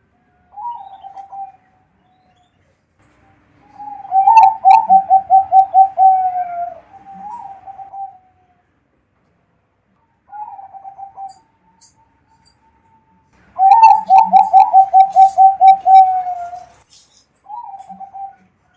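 Perkutut (zebra dove) singing: two long phrases of quick, slightly falling coos, each with short single coos before and after it.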